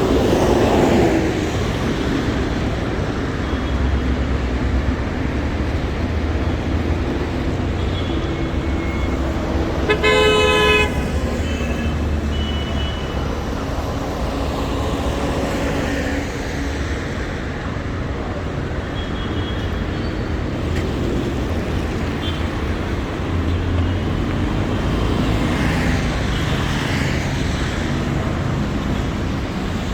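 Street traffic: a steady rumble of passing vehicles, with one short car-horn blast about ten seconds in.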